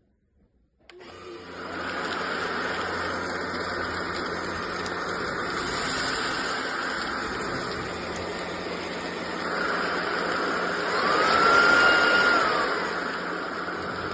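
SunSare X11 cordless stick vacuum's motor starting up about a second in and then running steadily with a whooshing hum. Near the end a whine rises in pitch, holds and falls again as it gets louder, as the suction setting is changed.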